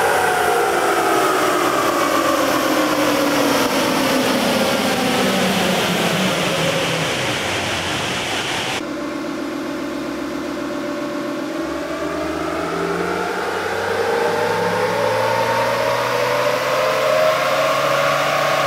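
Next Gen Ford Ranger's engine running on a chassis dyno: for the first half its pitch falls steadily as it winds down, then after an abrupt cut it rises steadily as the dyno run ramps up, engine speed climbing from about 1950 to over 4000 rpm.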